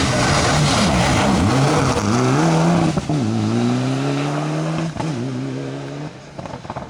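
Rally car engine working hard: the revs fall and dip, then climb through two gear changes about three and five seconds in, before the sound fades as the car pulls away.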